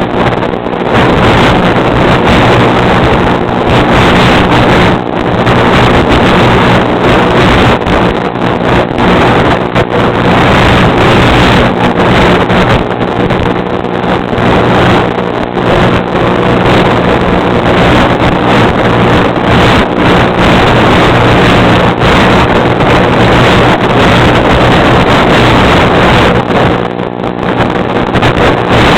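A steady mechanical drone with several constant low tones, mixed with heavy wind noise buffeting the microphone.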